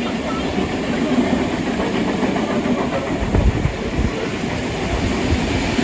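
Steam-hauled train carriage running along the track, a steady rumble of wheels on rail with a couple of heavier low thumps about three and a half and four seconds in.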